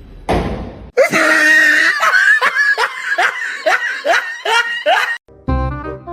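A person laughing hard in a run of loud, repeated shrieking bursts, about two a second, after a brief rushing noise. Music starts near the end.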